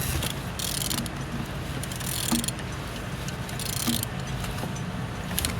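An engine being turned over by hand, which turns freely. Four short swishing bursts about a second apart, over a steady low hum.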